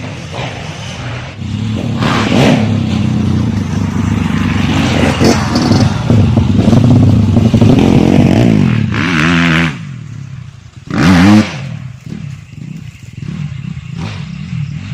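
Grasstrack racing motorcycle engine running and revving, its pitch rising and falling with the throttle, with a brief lull and then a short, sharp rev about three-quarters of the way through.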